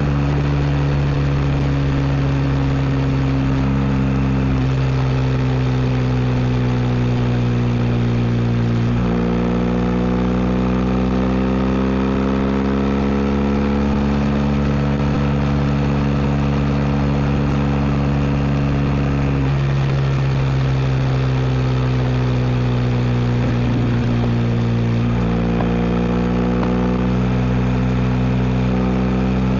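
BMW R1250 GS boxer-twin engine running through an Akrapovic exhaust under way, a steady loud engine note. The pitch steps down about a third of the way in and again near the end, creeping slowly back up in between.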